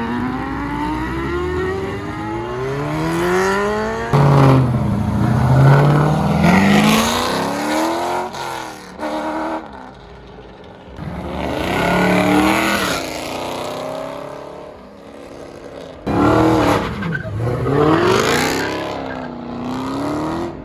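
Car engines accelerating hard, several cars in turn: each revs up through the gears and sweeps past with a drop in pitch, with hard cuts between them.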